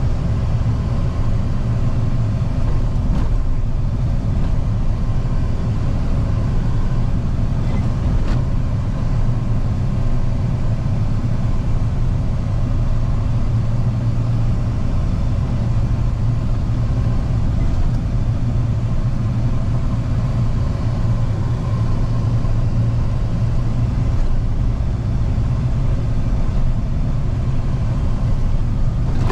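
Steady low engine drone and road rumble inside a truck cab as it drives slowly through city traffic.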